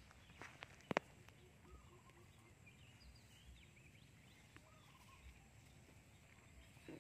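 Quiet outdoor ambience with faint bird calls and chirps here and there, and one sharp click about a second in.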